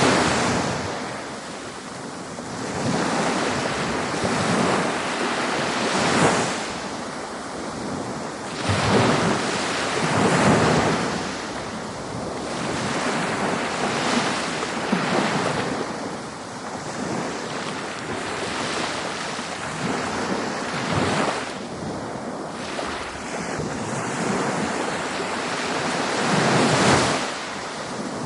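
Ocean waves breaking on a beach: rushing surf that swells and falls every few seconds, with wind noise on the microphone.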